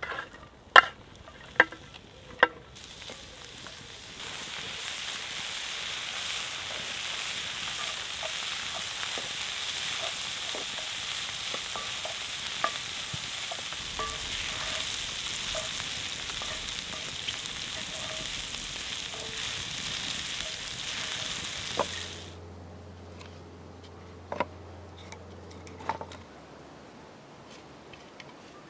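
A few sharp knocks, then chopped onions and pancetta sizzling steadily in hot oil in a cast-iron skillet over a campfire, stirred with a wooden spatula. The sizzle cuts off abruptly about 22 s in, leaving a quieter stretch with a couple of light knocks.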